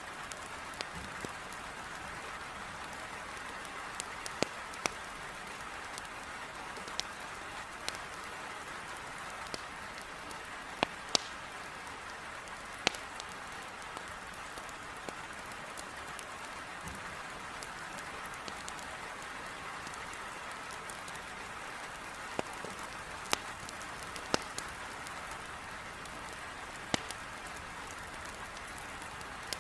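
Heavy rain falling in a steady hiss, with a wood fire crackling over it in scattered sharp pops, about a dozen spread unevenly through the stretch.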